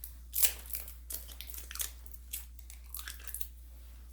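A run of short, uneven crunching noises, the loudest about half a second in, with a steady low hum underneath.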